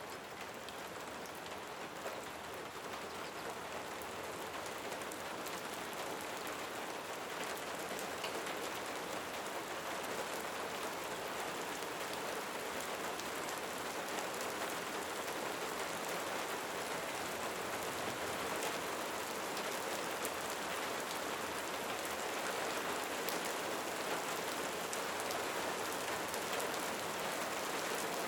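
Steady rain falling, a dense even hiss with many individual drops ticking sharply through it, growing slightly louder over the stretch.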